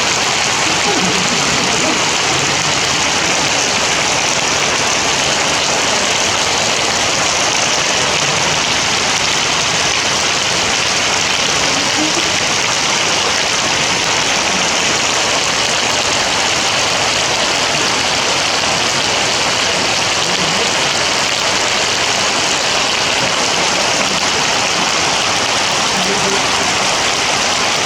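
Heavy rain falling steadily, a dense even downpour.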